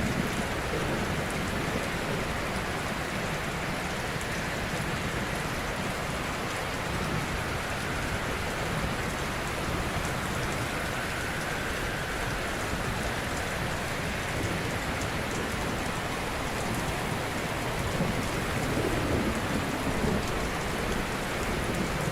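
Ocean waves breaking gently on a shore: a steady wash of surf that swells slightly louder about three quarters of the way through.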